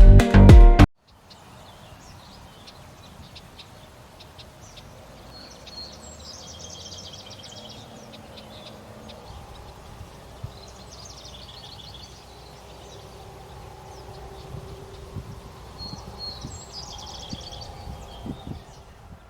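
Background music with a falling sweep cuts off abruptly about a second in. Tropical forest ambience follows, with a soft steady background and a bird repeating a short, high chirping phrase three times, about five seconds apart.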